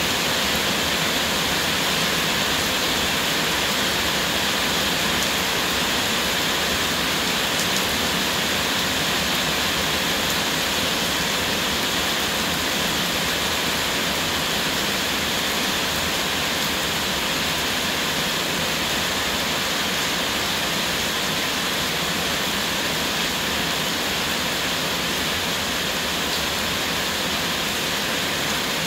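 Heavy rain pouring steadily, a dense, even hiss that holds without letting up.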